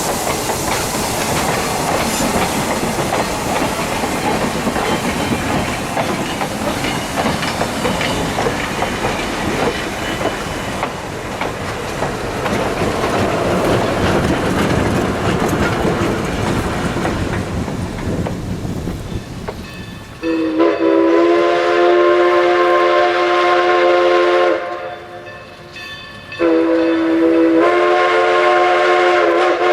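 For the first twenty seconds or so, Jeddo Coal Company 0-4-0T No. 85 steam locomotive runs with hissing steam and rail clatter. Then Everett Railroad 2-6-0 No. 11 sounds its multi-note chime steam whistle: one blast of about four seconds and, after a short gap, a second that runs on.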